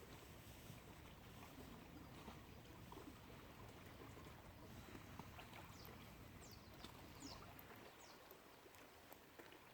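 Faint lakeshore ambience: a steady low rumble of outdoor noise, with a few quick, high, falling bird chirps about two-thirds of the way through.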